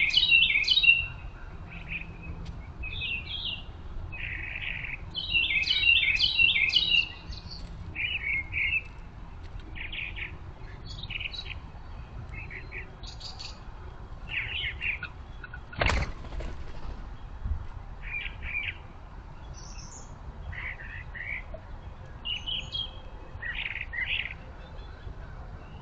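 Small songbirds chirping and calling in short high notes, with two louder runs of rapid repeated chirps near the start and about five seconds in. A single sharp knock about sixteen seconds in.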